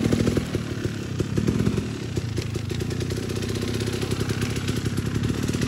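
Enduro dirt bike engine running steadily as the bike is ridden, a little louder in the first half second.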